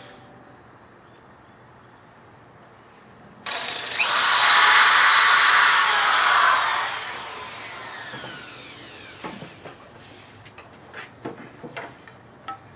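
A power tool whirring loudly for about three seconds, then a few light clicks and knocks.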